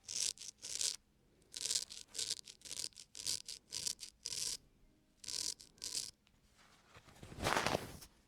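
A razor scraping across a man's facial skin in about a dozen short, crisp strokes with brief pauses between them, then one longer, louder stroke near the end.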